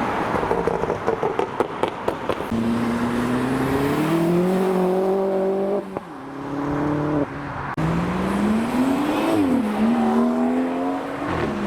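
A modified car's engine accelerating hard, its pitch climbing twice with a gear change in between, then easing off near the end. Crackling in the first couple of seconds.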